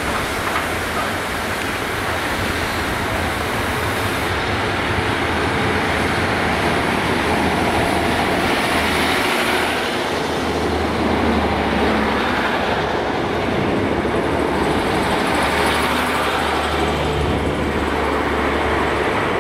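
Diesel multiple unit running past along the platform: the steady noise of wheels on rail with the low drone of its underfloor diesel engines, the drone growing stronger in the second half.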